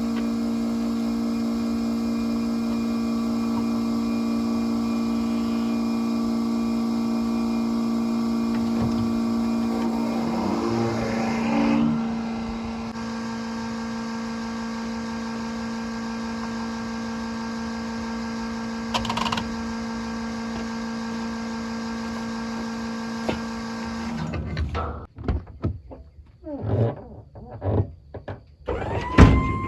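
An engine running at a steady speed, a constant hum that drops in level about halfway through. Synthesizer music with gliding notes comes in near the end.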